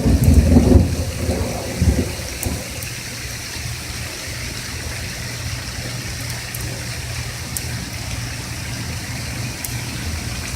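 Thunder rumbling and dying away over the first two seconds, then steady rain falling, with a few sharp drips.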